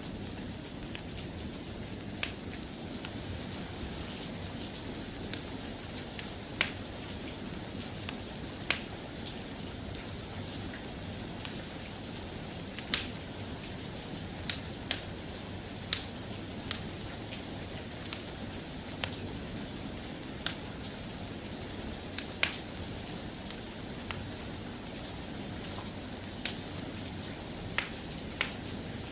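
Steady, soft rain with a low rumble under it, and scattered sharp pops of a crackling fireplace coming irregularly, about one every second or two.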